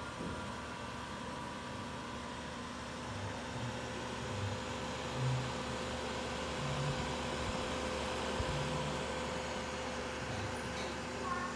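Power Mac desktop computer running with a steady hum and whir from its fans and power supply, with a few thin steady tones. Short, irregular low thuds come through every second or so.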